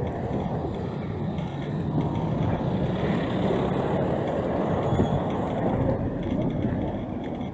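Street traffic noise: motor vehicles running by as a steady low rumble, a little louder in the middle.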